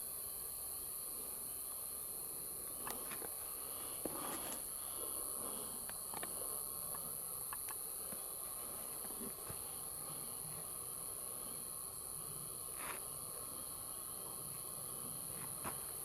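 A steady, high-pitched chorus of night insects such as crickets, with a few faint clicks and rustles scattered through it.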